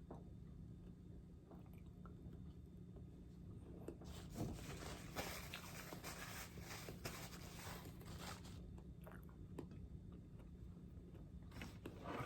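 Close-up crunching and chewing of crisp apple dipped in caramel: a few scattered bites at first, then a dense run of crunchy chewing from about four seconds in, easing off, and another burst of crunching near the end.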